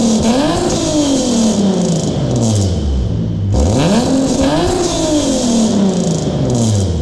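Nissan VQ37VHR V6 breathing through a custom titanium single-exit exhaust with high-flow ART cats and a titanium Y-pipe, revved twice in the parked car. The first rev is already sinking back toward idle at the start. About half-way through, the second climbs quickly and then falls slowly back, with a raspy hiss over the note.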